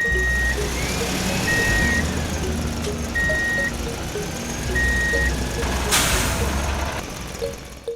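Vehicle reversing beeper sounding four times, about once every one and a half seconds, over a low hum and a slowly rising and falling whine. There is a hiss about six seconds in, and light background music plays throughout.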